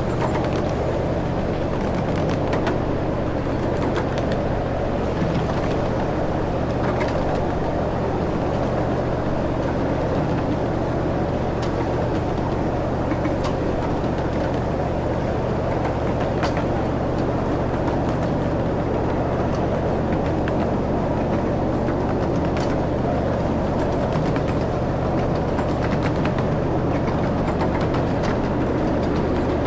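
Ride-on train running steadily: a constant low engine hum over rolling noise, with a few light clicks or rattles now and then.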